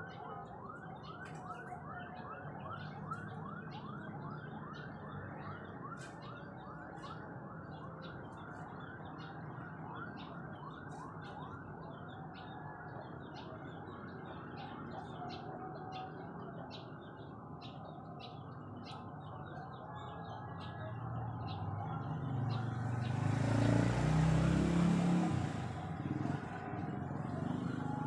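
A bird calling over and over, a quick run of short rising-and-falling chirps about three a second that fades after about ten seconds. Later a low rumble with a rush of noise swells and becomes the loudest sound, then drops away near the end.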